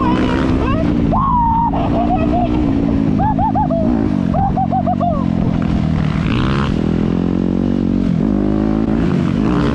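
Dirt bike engines running while riding on a trail, with the throttle easing and opening again several times. A second engine revs in quick repeated blips, about three to five a second, in short runs near the start and the middle.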